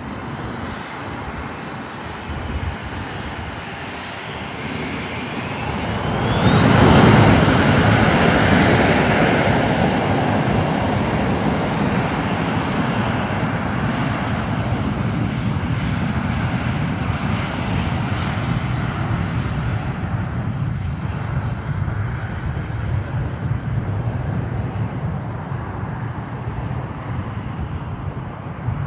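Cirrus SF50 Vision Jet's single turbofan on takeoff: a whine rising in pitch as the engine spools up, loudest about seven seconds in, then a steady jet rush with a high whine that slowly fades.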